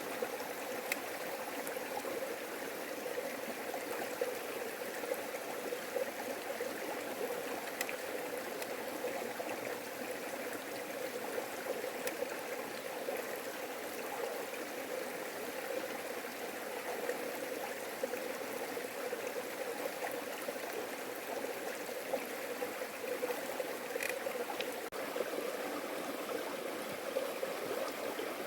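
A stream running steadily, an even rush of flowing water with a few faint ticks over it.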